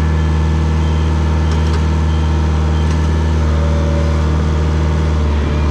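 Komatsu bulldozer's diesel engine running steadily, a constant low drone with little change.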